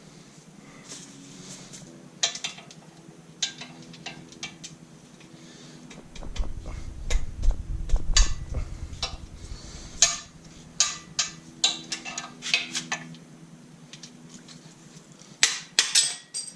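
Scattered metallic clinks and knocks of hand tools and parts being handled during an LS V8 engine teardown, with a low rumble from about six to nine seconds in and a quick run of clanks near the end.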